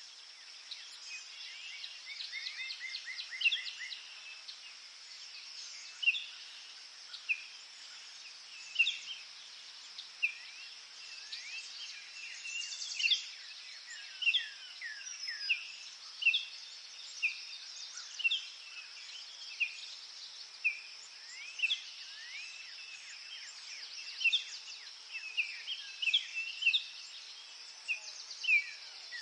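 Forest birds singing and calling: a string of short chirps and quick downward-sweeping whistles, about one or two a second, over a steady high hiss.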